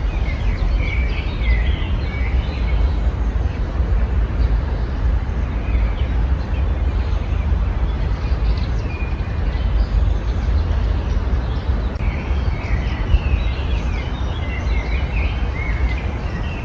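Small songbirds chirping and twittering in short bouts, over a steady low rumble.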